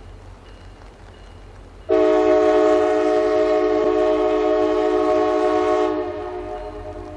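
Diesel locomotive multi-chime air horn, from the lead F40PH, sounding one long blast of about four seconds, a chord of several tones. It starts about two seconds in, cuts off near the end, and a fading echo trails after it. A faint low hum lies underneath.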